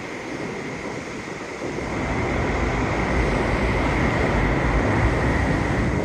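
Steady low rumbling roar of wind, getting louder about two seconds in, with a faint steady high whine throughout.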